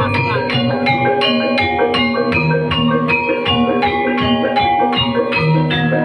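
Gamelan music accompanying an ebeg hobby-horse dance: mallet-struck metal bars play a fast, steady run of notes, about four a second, over lower ringing tones.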